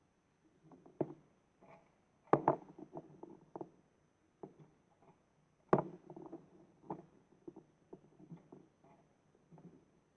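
Plastic toy bin truck and bins being handled: scattered light clicks and rattles, with two sharp knocks, one a couple of seconds in and one near six seconds in.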